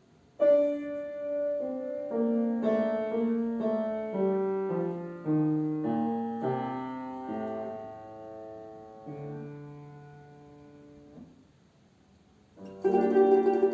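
Piano playing the slow introduction of a Russian folk-song arrangement, a phrase of sustained notes stepping downward and fading away. After a brief pause, a plucked string instrument comes in with the piano near the end, louder.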